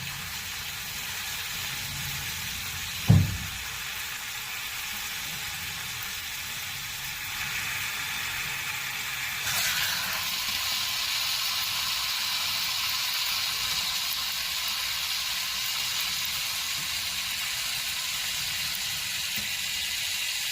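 Steady hiss of water rushing through plumbing, with a single sharp knock about three seconds in; the hiss grows louder about ten seconds in.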